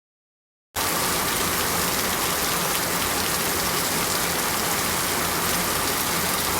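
Rain falling: a steady, dense hiss that cuts in abruptly out of dead silence just under a second in.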